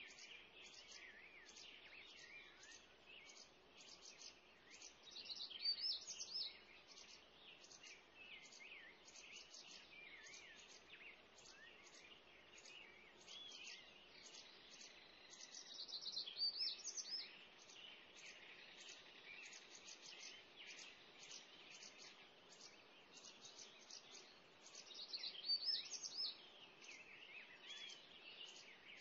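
Birds chirping and singing: a steady run of rapid, high, short chirps, with a louder, warbling song phrase rising out of it three times, about ten seconds apart.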